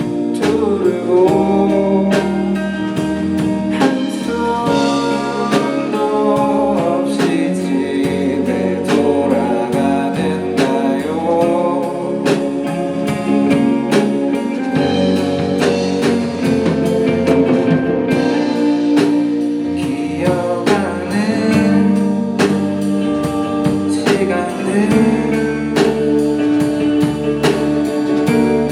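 A band playing a song live: guitars and a drum kit keeping a steady beat under a sung melody.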